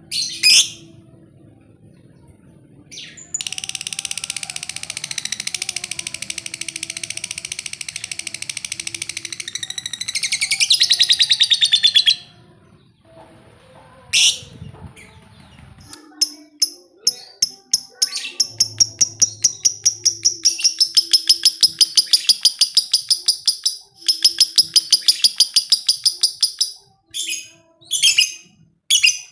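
Lovebird ngekek: long, rapid chattering trills. There are two long bouts, the first ending in a quicker run of notes, with short single chirps between and after them.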